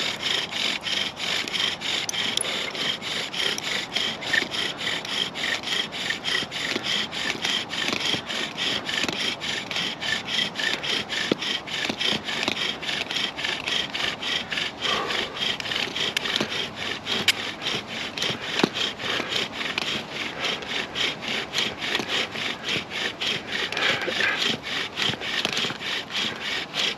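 Bow drill in use: a wooden spindle spun back and forth in a hearth board by the bow, grinding in a fast, even rhythm of strokes. The friction builds heat and wood dust toward an ember.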